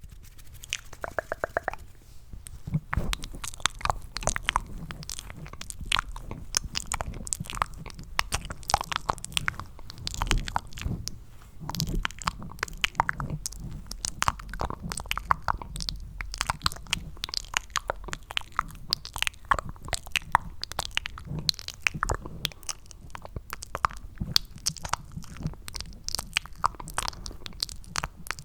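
Cupped ASMR mouth sounds close to the microphone: a dense, irregular run of wet clicks and smacks made to sound like eating sticky mac and cheese.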